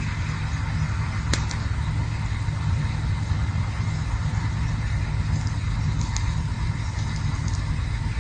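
Campfire burning: a steady low rumble under a light hiss, with a few sharp crackling pops, the clearest about a second in.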